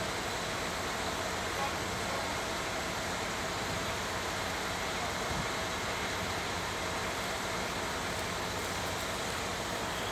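Machinery running steadily: a constant even noise with a low hum and a few faint steady tones, unchanging in level.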